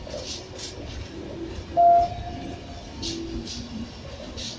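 Passenger coaches rolling slowly past over station pointwork, wheels clicking and rumbling over the rails. About two seconds in, a brief loud high squeal, with fainter lower squeals a second later.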